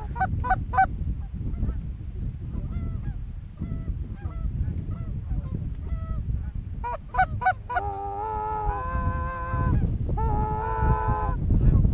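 Geese honking as a flock comes in: short, arched honks at first, then longer, drawn-out calls in the second half, over a low wind rumble on the microphone.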